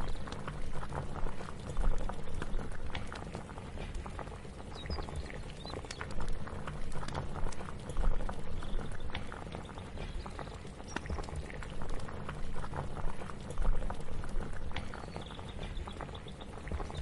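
Liquid boiling on a kitchen stove: a steady bubbling made of many small pops, with a low rumble under it that swells and eases irregularly.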